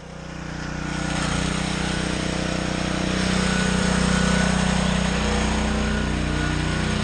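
A motor or engine running steadily, with several held low tones over a noisy hiss. It swells up over the first second, then holds steady.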